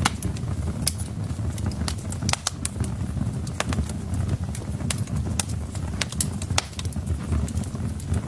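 Wood fire burning in a fireplace: irregular sharp crackles and pops from the burning logs, several a second, over a steady low rumble of the flames.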